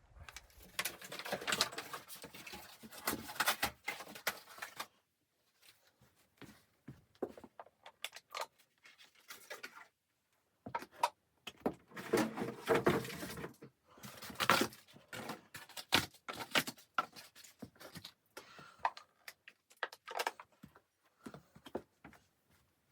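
Irregular handling noises in a small room: rustling in two longer stretches, with many scattered clicks and knocks between them.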